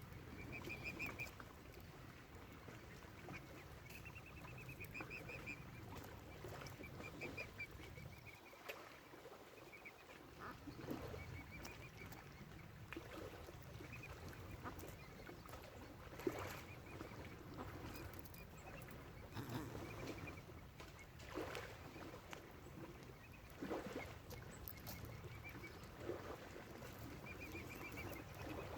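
Waterfowl calling: short runs of rapid high-pitched notes repeating every second or two, with a few brief knocks in between.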